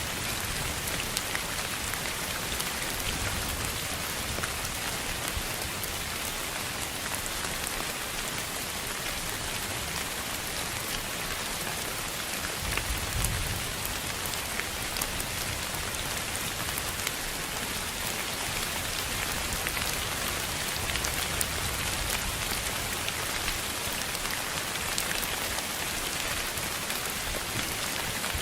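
A steady, even hiss of noise that sounds like rain falling on a surface, with faint scattered ticks and a brief low rumble about halfway through.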